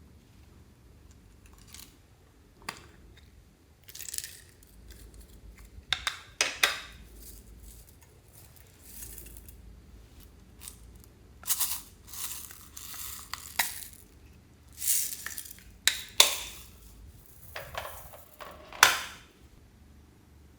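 Hands handling slime-making containers and add-ins: about a dozen irregular clinks, taps and short scraping or rustling sounds, the loudest near the end.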